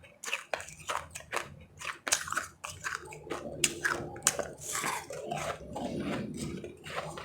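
Close-up crunching and chewing of powdery refrozen ice chips: a quick run of sharp bites and crunches, turning into denser chewing in the second half.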